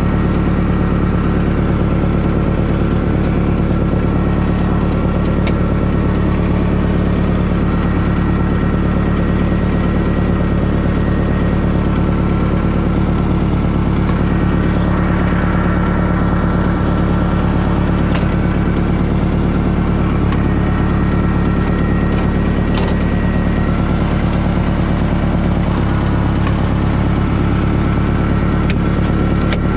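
International 2400B tractor engine running steadily, with a couple of brief clicks partway through.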